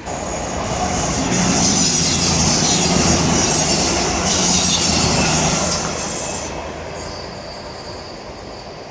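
Passenger train passing close by on the line: engine hum and the rush of wheels on rail build up, peak for several seconds and then fade as it moves away. A thin high whine from the wheels and rails lingers near the end.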